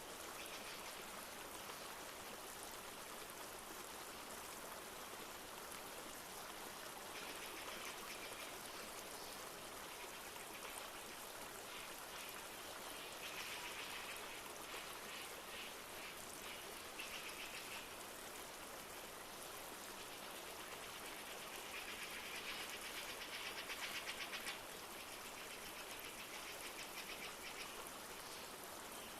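Steadily flowing river with a light hiss of rain, overlaid by high, rapid trilling calls from creatures that come and go several times, loudest about three quarters of the way through.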